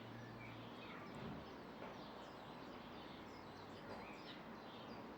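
Several small birds chirping in the background, many short calls overlapping, over a faint steady hiss; a low hum fades out about a second in.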